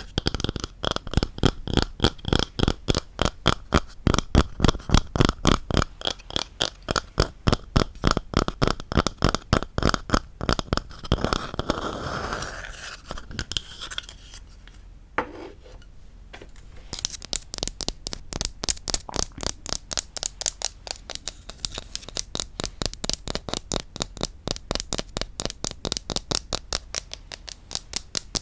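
Rapid tapping on wooden objects, about five quick taps a second. The tapping breaks off for a couple of seconds about halfway through, apart from a single click, then resumes more lightly.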